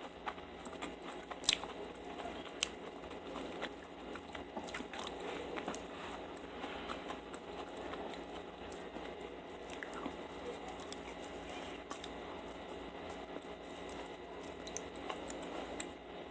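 Close-up chewing of soft, sticky dried mango, with small wet mouth sounds and frequent light clicks. Two sharp clicks stand out about a second apart near the start.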